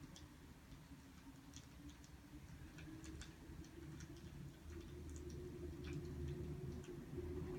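Wood fire crackling: faint, irregular sharp snaps and pops over a low steady hum.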